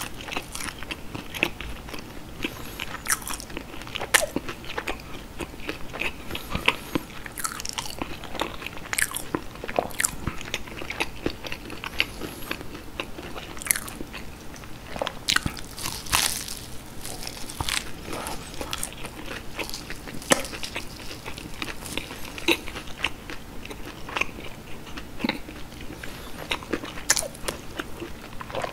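Close-miked biting and chewing of breaded fried cheese sticks: the crisp breading crunches in many short crackles between softer chewing.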